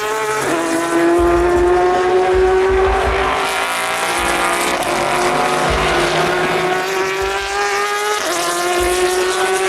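Race car engines running at full throttle. The strongest engine note climbs slowly, drops abruptly at a gearshift about eight seconds in, and starts climbing again.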